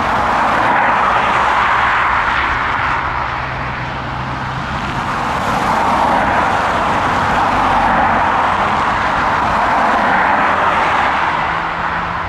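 Boeing 757 jet engines running with a loud, continuous roar that swells twice and eases off near the end.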